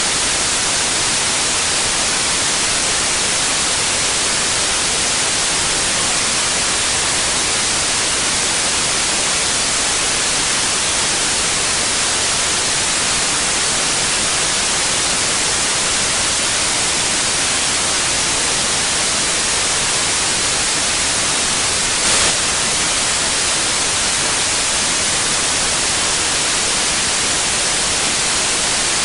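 Generated white noise: a steady, even hiss, brightest in the treble, with one brief click about three-quarters of the way through.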